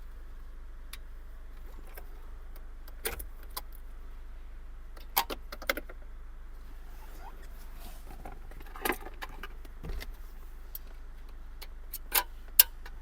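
Scattered sharp plastic clicks and small rattles from wiring connectors being unclipped from the back of a car stereo and climate-control unit, loudest as two quick clicks near the end, over a steady low hum.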